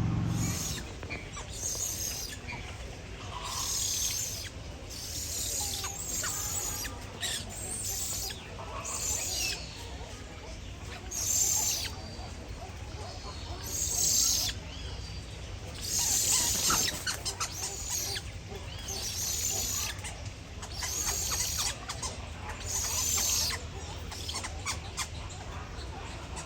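High-pitched bird calls, about a dozen, each under a second long and repeating every second or two, over a low steady background hum.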